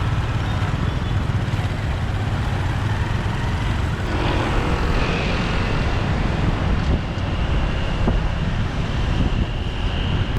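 Motorbike riding on a city street: a steady low engine and road rumble with wind on the microphone. A louder rush of noise comes about four seconds in, and a faint high whine runs through the second half.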